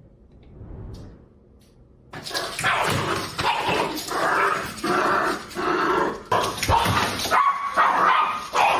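A dog vocalizing in a long run of loud, repeated calls that start about two seconds in.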